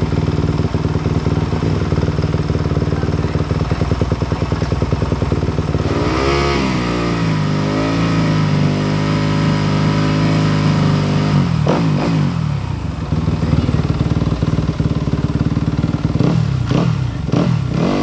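Motocross bike engine running in the pits: idling, revved up about six seconds in and held at higher revs for several seconds before dropping back, then given a few quick throttle blips near the end.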